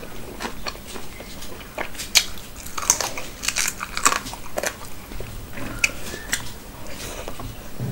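Close-up eating sounds: a person chewing and biting into a curried chicken leg and rice eaten by hand. Irregular wet mouth clicks and smacks with a few crunchy bites, busiest in the middle.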